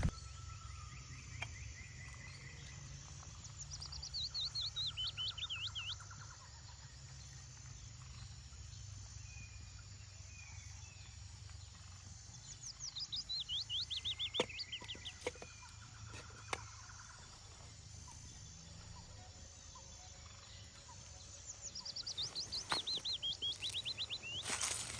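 A songbird singing three times about nine seconds apart, each song a quick run of notes falling in pitch, over a steady low wind rumble. A few sharp ticks sound between the second and third songs.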